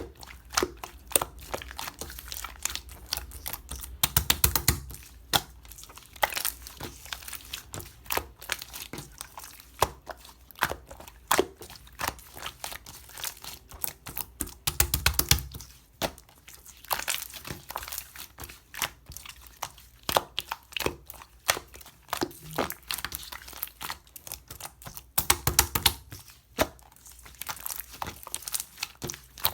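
Clear slime being squished and stretched by hand, making rapid sticky clicks and small pops, with denser bursts of crackling every few seconds.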